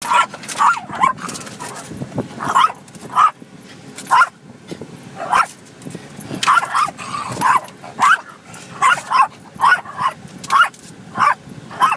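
Dog barking and yipping at moving windshield wipers: repeated high-pitched barks in quick irregular runs, with short gaps between them.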